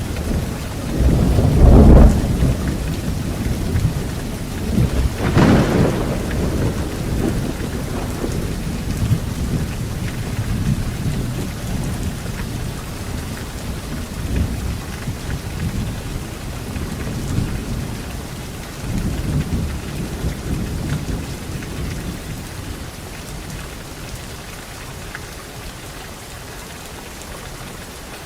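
Steady rain falling, with thunder: a heavy low rumble about two seconds in, then a sharp thunderclap about five seconds in, followed by rolling rumbles that die away, leaving the rain.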